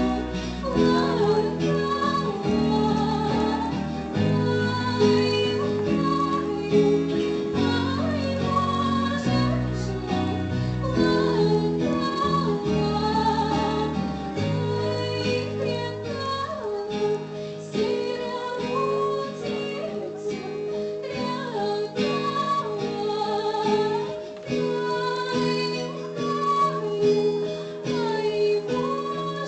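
Solo female voice singing a slow melody with vibrato, over instrumental accompaniment with a bass line.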